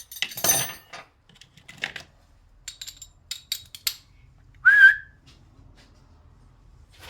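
A few light clicks and rattles of gear being handled, then about two-thirds in a single short whistle that rises and then holds briefly, the loudest sound.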